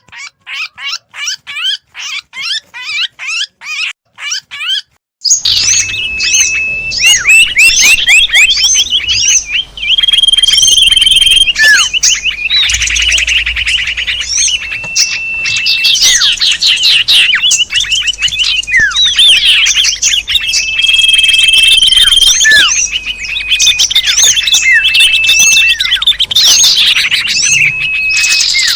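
Small songbirds chirping in a bird-lure recording. First one bird gives rapid repeated chirps, about three a second. Then, about five seconds in, a dense chorus of many small birds takes over, twittering and trilling with repeated high, steady whistles.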